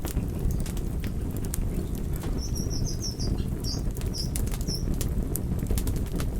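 Wood fire crackling: a steady low rumble of flames with frequent sharp pops and snaps. A short run of faint high squeaks comes in the middle.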